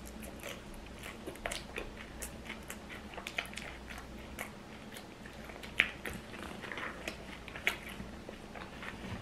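A person chewing food close to the microphone: a steady string of short mouth clicks and smacks, with a sharper click about six seconds in and another near the end.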